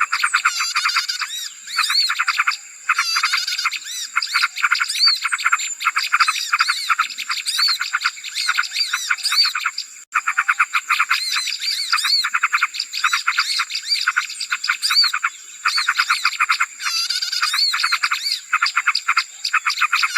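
Recorded bird-lure sound of many small birds calling at once: a dense, busy stream of rapid high chirps and twitters, broken by a few short pauses, with a steady high tone held underneath.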